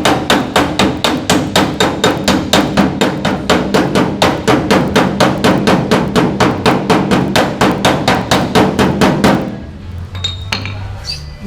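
Shrink hammer striking the steel bedside panel of a Ford F-150 in a rapid, even series of blows, about four a second, which stop about nine and a half seconds in. The blows are relaxing the metal after a dent has been tapped out.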